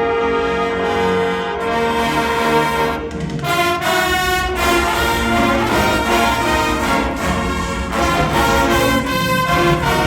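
Winds ensemble led by brass playing its show music. Held chords give way, about three and a half seconds in, to a fuller passage with a heavier low end.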